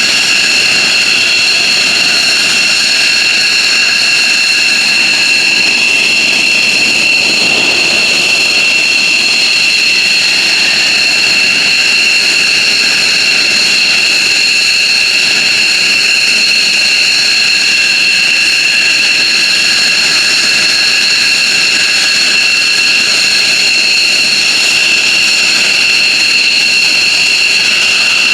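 F-15J Eagle's twin Pratt & Whitney F100 turbofan engines running steadily: a loud, high-pitched whine made of several steady tones over a rushing noise, with no change in pitch.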